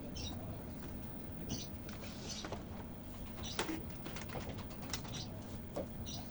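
Birds calling, including cooing, over a steady low hum, with a few small sharp clicks.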